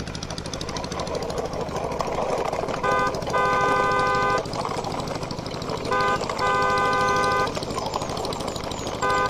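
Vehicle engine running steadily under a car horn that honks a short toot followed by a longer one, three times about three seconds apart.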